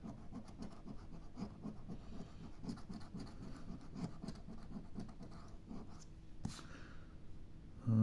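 Scratch-off lottery ticket being scratched, the coating rubbed away in quick repeated strokes, with a single sharp click about six and a half seconds in.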